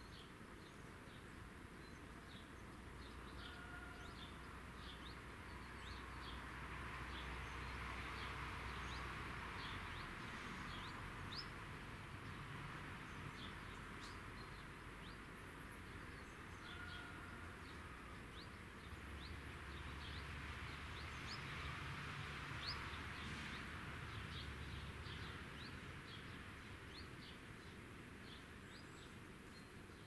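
Small birds chirping in many short, high calls over a faint countryside background, with a soft hiss that swells and fades twice and a faint low rumble underneath.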